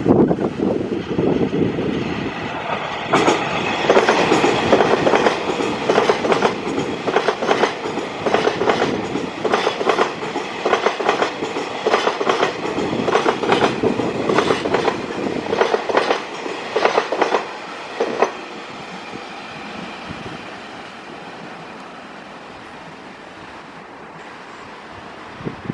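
A train passing close by, its wheels clicking rhythmically over rail joints in quick repeated groups; the clicking stops about 18 seconds in as the last car goes by, leaving a quieter fading rumble.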